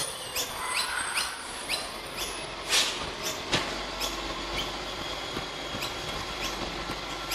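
A bird giving repeated short, high, falling chirps, quick at first and then slowing to about one every half second or so. Two sharp knocks sound a little under three seconds and about three and a half seconds in, over a low steady rumble.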